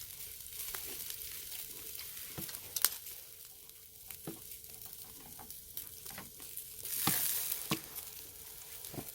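Pork neck sizzling on a grill over a charcoal brazier: a steady hiss that swells briefly about seven seconds in, with scattered sharp clicks.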